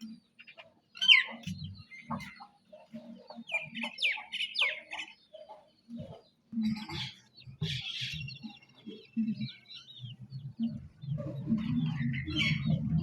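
Chickens feeding: hens give repeated low clucks while chicks peep in short, high, falling chirps. The clucking grows busier near the end.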